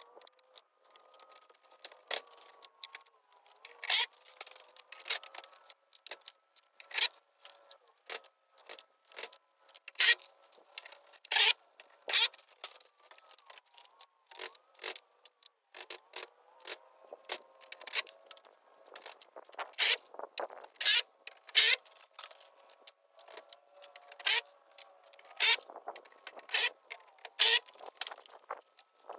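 Sped-up gutter installation work: a rapid, irregular run of sharp clicks, knocks and scrapes, some much louder than others, over a faint steady hum.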